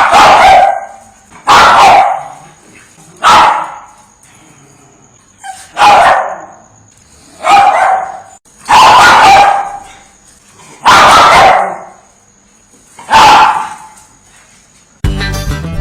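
A dog barking loudly, one bark at a time, about every one and a half to two seconds, eight barks in all. Guitar music starts near the end.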